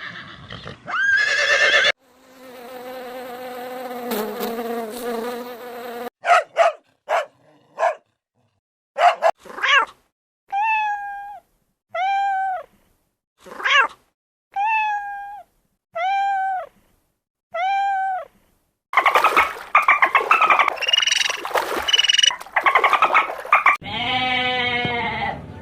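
A run of different animal calls one after another: a steady pitched call, several short sharp calls, then a series of short arching calls about a second apart, followed by a dense, noisy stretch of calling near the end.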